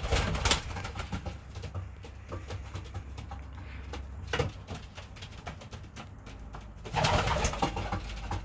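Racing pigeons cooing in a loft, with a few short, louder noisy bursts near the start, about halfway, and a longer one near the end.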